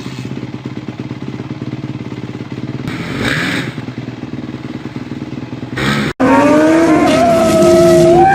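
Motorcycle engine idling with a fast, even pulse, briefly louder about three seconds in. It cuts off abruptly about six seconds in, and loud music begins.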